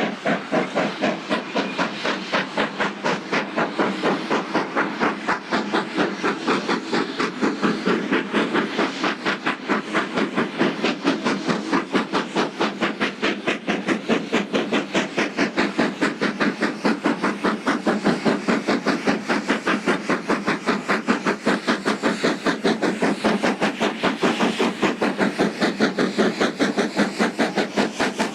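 Hawthorn Leslie 0-4-0 saddle tank steam locomotive built in 1924, working hard up a steep 1 in 19 gradient with loaded mineral wagons: a steady, loud run of sharp exhaust beats, about four a second, over hissing steam.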